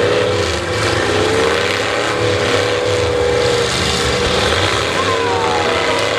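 Demolition derby cars' engines running hard at high revs, a loud steady din whose pitch holds with small dips and rises.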